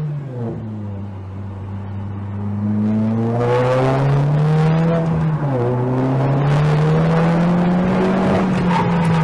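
Car engine accelerating, its pitch climbing steadily, dropping once about five seconds in at a gear change, then climbing again.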